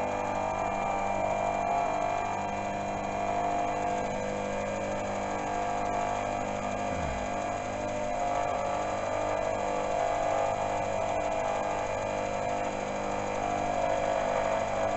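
Milling machine spindle running at about 900 RPM while an end mill takes a shallow cut through a steel block. It makes a steady, even hum made of several held tones.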